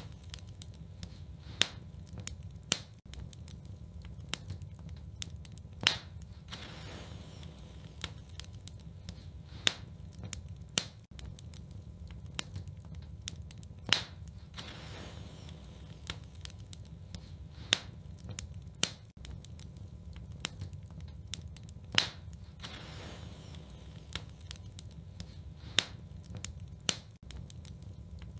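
Wood fire burning in a fireplace: irregular sharp crackles and pops, roughly one every second or two, over a steady low rumble.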